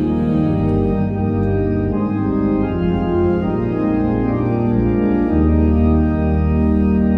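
Organ playing slow, held chords over a sustained bass, the chords changing every second or so.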